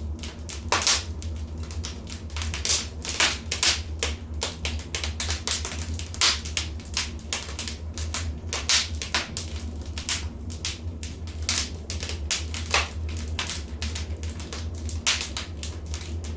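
Wood fire crackling in a fireplace: irregular sharp pops and snaps, sometimes several in quick succession, over a steady low rumble.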